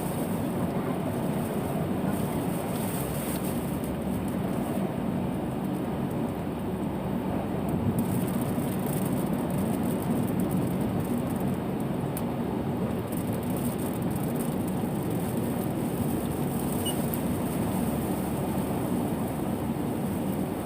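Steady road noise of vehicles with tyres on a wet road in heavy rain: an even rumble with a hiss of rain and spray over it.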